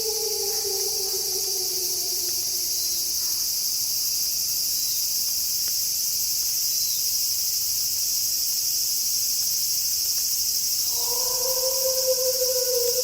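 Steady, high-pitched chorus of crickets at night. A wolf howl falls in pitch and fades out in the first couple of seconds, and another long wolf howl starts about eleven seconds in, holding a steady pitch.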